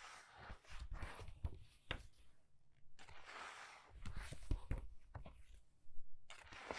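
Pages of a book being turned quickly by hand: a few brief papery swishes, each page turn followed by soft taps and low thumps as the pages land.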